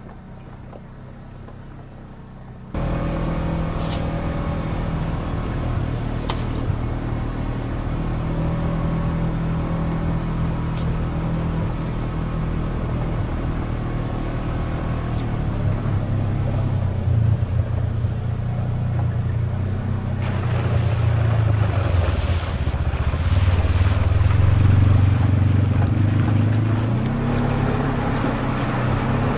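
An engine running steadily, starting loud and abruptly about three seconds in and growing rougher and louder in the last third.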